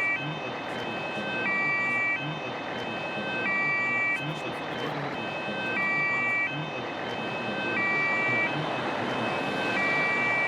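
Two-tone emergency-vehicle siren alternating between a high and a low note, each held about a second, over steady road noise.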